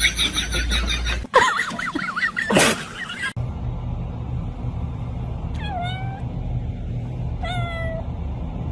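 Domestic cat meowing twice, short calls about two seconds apart, over a steady low hum.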